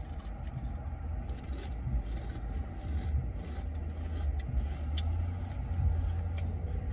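Chewing and crunching stacked potato crisps with the mouth closed, faint crackly crunches over a steady low rumble.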